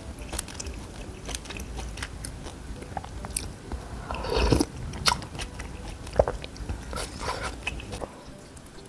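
Close-miked eating sounds: biting and chewing a mouthful of rice noodles and beef from noodle soup, with scattered small clicks and a louder bite about four and a half seconds in.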